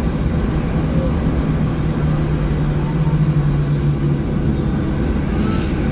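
Cabin noise inside a Boeing 737-700 on the ground after landing: a steady low hum over rumble. The hum's pitch drops slightly about two seconds in.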